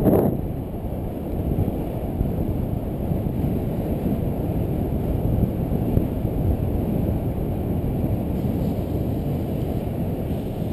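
Wind rushing over a GoPro's microphone on a fast road-bike descent: a steady, heavy low rush of noise.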